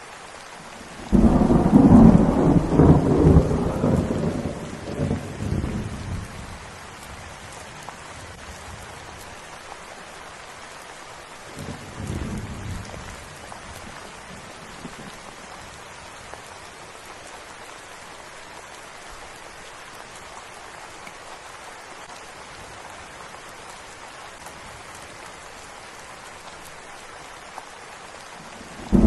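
Steady rain falling, with thunder rumbling: a loud peal starts about a second in and fades over several seconds, then a fainter rumble comes around twelve seconds in.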